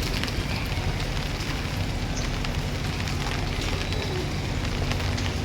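Heavy rain pouring steadily, with a dense crackle of close drops and a low rumble underneath.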